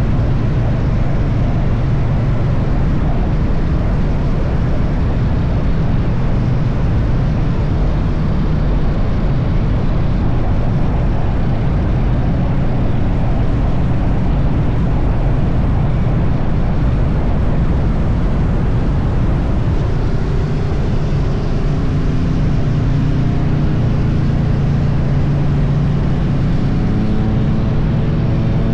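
Triumph Bonneville T100's parallel-twin engine running steadily at highway cruising speed under heavy wind noise, its pitch climbing slowly over the last several seconds as it speeds up.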